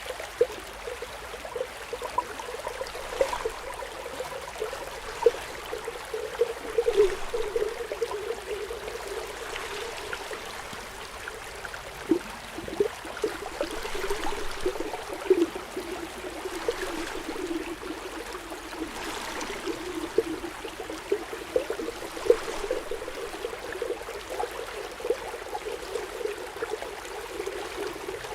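Underwater bubbling: a steady run of small bubbles popping and gurgling, with frequent short clicks.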